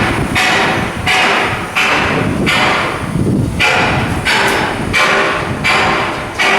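Steel being hammered in a shipyard: a regular run of sharp metal blows about every 0.7 s, each ringing out briefly.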